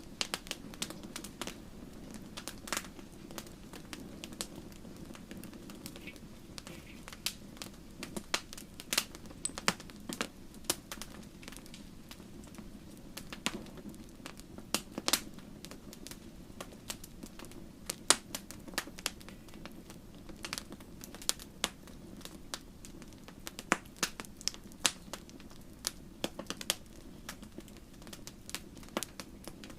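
Wood fire crackling in a fireplace: irregular sharp pops and snaps, several a second, over a steady low rush of the burning fire.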